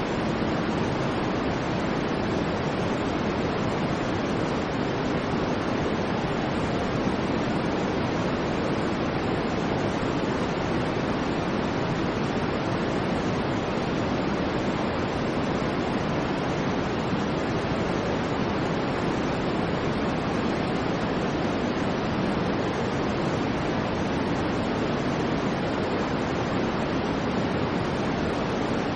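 Continuous white noise track: an even, unchanging rushing hiss, fuller in the lower range than in the treble.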